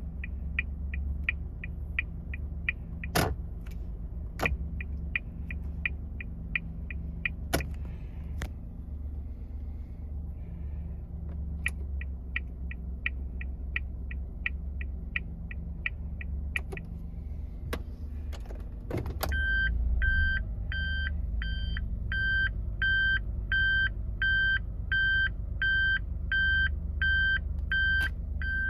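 Suzuki Spacia Custom (MK32S) idling while the turn-signal and hazard flasher ticks at about three clicks a second, with a pause of a few seconds partway through. About 19 s in, a shift into reverse sets off the reverse warning beeper, which beeps repeatedly, a little over once a second, over the idle.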